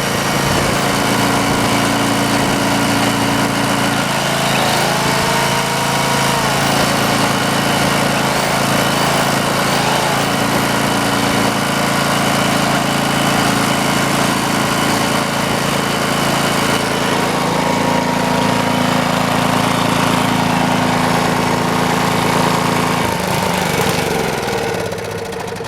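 Greenlee 5000-watt portable generator's small engine running steadily under load while a plugged-in electric drill spins up and slows down several times. Another tool's motor runs steadily for several seconds later on, and near the end the engine's pitch slides down as it winds down.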